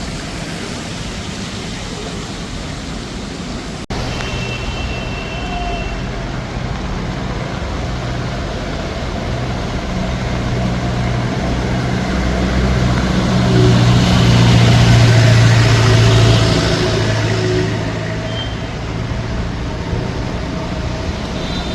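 Road traffic with a vehicle engine running close by, its hum swelling to a peak about two-thirds of the way through as it passes, then easing off. There is a brief break about four seconds in.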